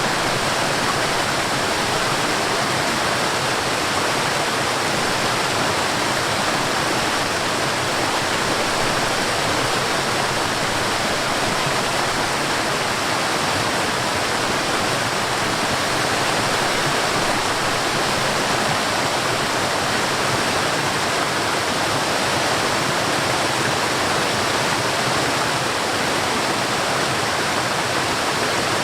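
Forest waterfall: falling water with a steady, even rush.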